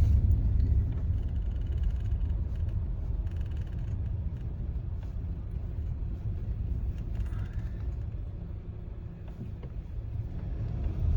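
Low, steady rumble of a car driving, heard from inside the cabin: engine and road noise, easing off a little in the later seconds.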